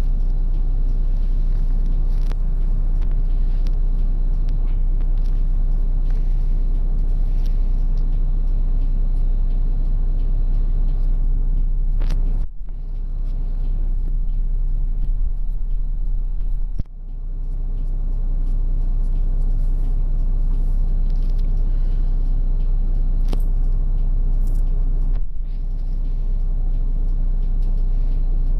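Route bus under way, heard from inside the cabin: steady low engine and road rumble. Three times the sound drops suddenly and builds back up, twice sharply in the middle and once more lightly near the end.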